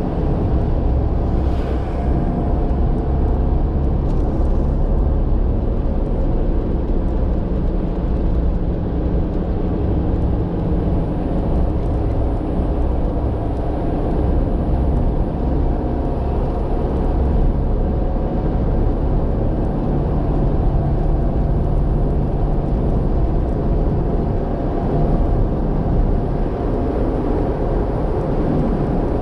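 Steady low rumble of a vehicle driving, engine and road noise, with a faint hum that shifts in pitch now and then.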